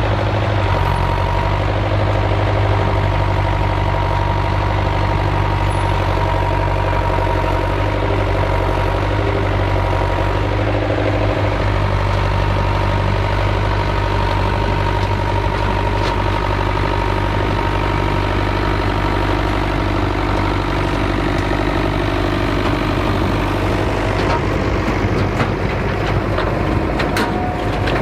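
Vintage tractor engine running steadily, with some clattering and knocking near the end.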